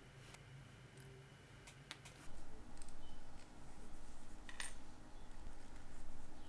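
A Citizen 8110A mainspring being worked out of its barrel between rubber finger cots: an uneven rubbing, scraping sound that starts a little over two seconds in, after a few small clicks of tweezers on the movement's parts.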